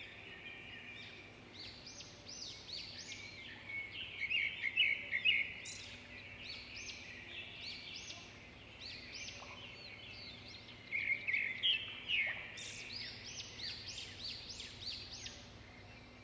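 Birds chirping and singing, many short quick notes overlapping against a faint steady background, busiest in two spells, a few seconds in and again past the middle.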